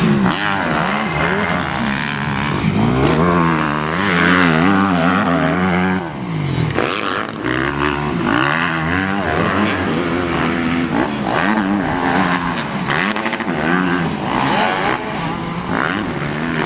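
2008 Yamaha YZ250F four-stroke single-cylinder motocross engine being ridden hard, revving up and down over and over as the throttle opens and closes, its pitch rising and falling in waves.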